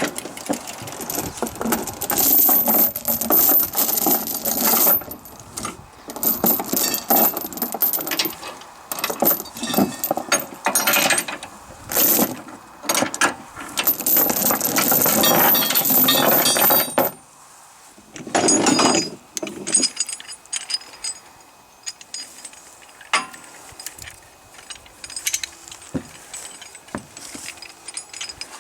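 Steel tie-down chains rattling and clinking as they are handled and drawn around a tractor on a trailer. The clatter is dense and nearly continuous for the first half, then thins to one more burst and scattered single clinks.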